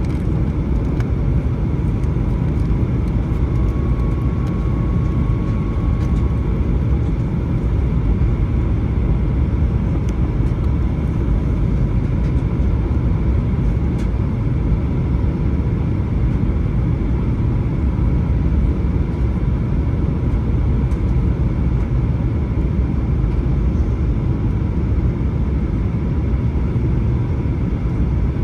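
Steady in-flight cabin noise of a Boeing 737-900 during descent: an even rumble of the CFM56 turbofan engines and the airflow, with a faint steady tone above it.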